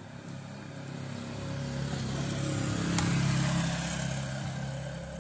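A motor vehicle's engine passing by, swelling to its loudest about three seconds in and then fading.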